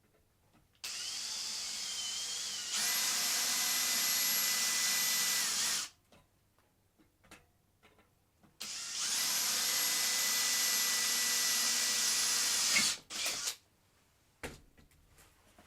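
A small electric power tool, drill-like, runs twice for about five and four seconds. Each time it starts at a lower speed, steps up to a steady high whine, and then cuts off sharply. A few light knocks follow.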